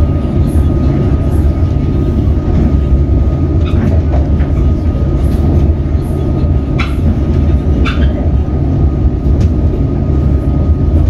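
Comeng electric suburban train running at speed, heard from inside the carriage: a steady loud rumble of wheels and running gear with a thin constant high tone over it, and a few short sharp clicks along the way.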